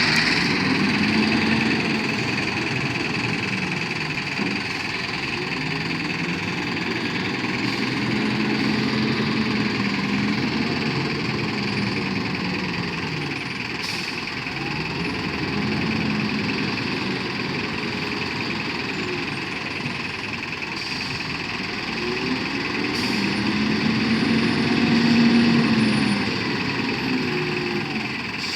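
Truck engine running steadily, its low pitch slowly rising and falling every several seconds.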